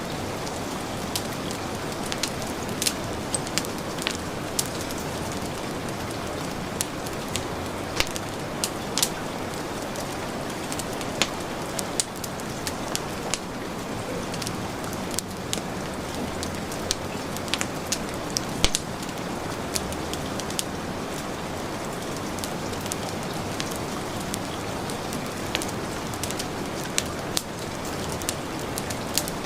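Steady heavy rain mixed with a wood fire crackling, its sharp pops coming irregularly every second or so.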